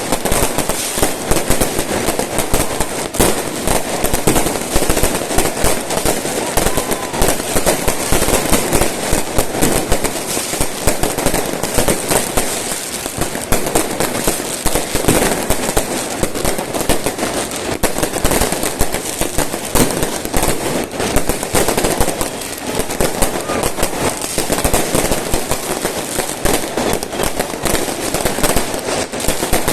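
Fireworks going off in a dense, continuous barrage of crackling bangs, with no let-up.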